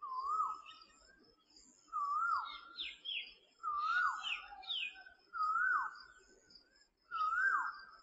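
Birds singing at dawn: one bird repeats a short whistled phrase, rising then dropping sharply, five times about every two seconds, while another adds quicker, higher falling notes between them. A faint, continuous high chirping runs underneath.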